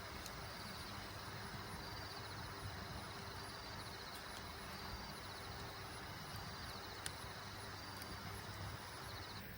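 Steady rushing of a valley stream, with an insect trilling in short high-pitched bursts that repeat every second or two.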